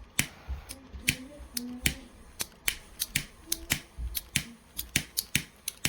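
The spark igniter of a Zippo 65827 double-torch butane lighter insert being clicked over and over, about three sharp clicks a second at an uneven pace, as the finicky insert is tried for a light.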